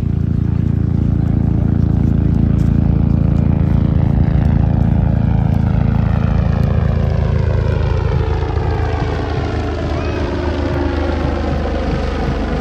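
Low-flying propeller aircraft passing overhead: a loud, steady engine and propeller drone whose pitch falls from about halfway through as it flies past and away.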